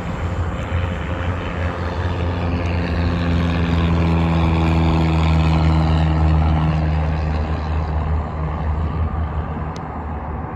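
Propeller airplane passing close by, its engine and propeller drone swelling to a peak about five to six seconds in and then fading away.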